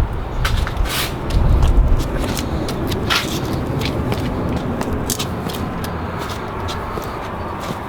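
Gusty wind buffeting the microphone, a heavy uneven rumble, with a few sharp clicks and knocks.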